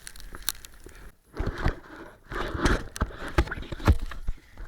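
Irregular muffled scrapes and thumps, a handful of knocks over about three seconds, heard through a camera in a waterproof case.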